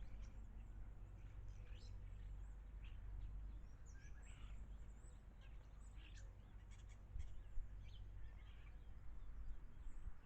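Garden birds chirping: many short, scattered calls over a steady low background rumble.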